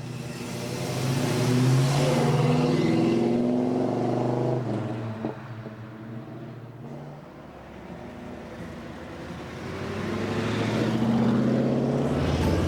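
Loud car exhaust accelerating: engine pitch climbs for about four seconds, cuts off sharply, then a second rise of revving builds near the end.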